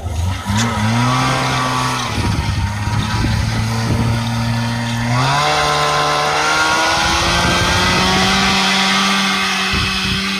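An engine pulling away under load, its pitch rising sharply about half a second in and again about five seconds in, then climbing slowly and holding steady.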